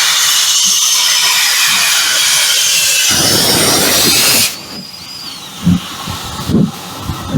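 Steam locomotive letting off steam: a loud, steady hiss that cuts off suddenly about four and a half seconds in, followed by a few faint low thuds.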